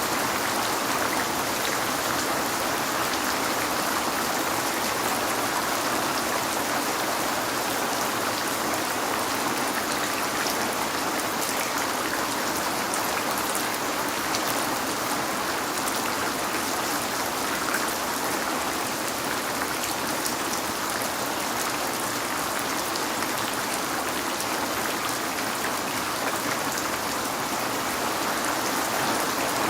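Rain falling on a window, a steady, even hiss with faint drop ticks that keeps on without a break.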